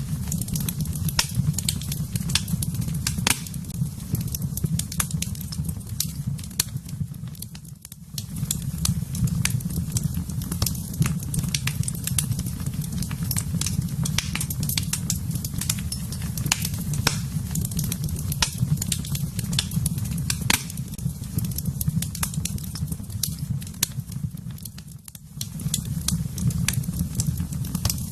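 Wood fire burning in a fireplace: a steady low rumble of flame with a continual scatter of sharp crackles and pops. The rumble drops away briefly twice.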